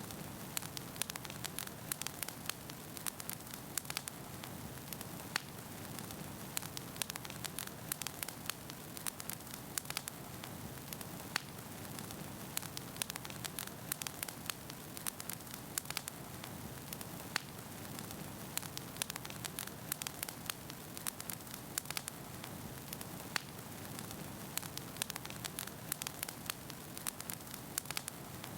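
Wood fire burning in a fireplace, a steady low rush with frequent sharp, irregular crackles and pops from the burning logs.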